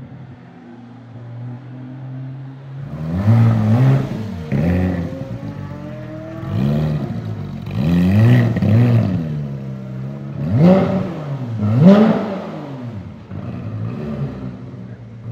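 Porsche 991 GT3's flat-six with a Cup exhaust idling, then, about three seconds in, blipped through a series of sharp free revs that snap up and fall straight back, about eight in all.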